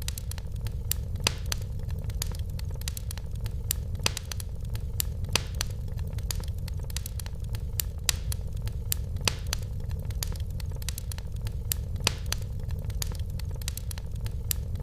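Wood fire burning in a fireplace: a steady low rumble of the flames with irregular crackles and occasional louder pops from the burning logs.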